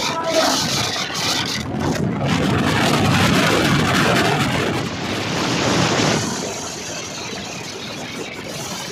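A passing train: a loud, even rumble and rush that is loudest in the middle and drops to a lower, steady level after about six seconds.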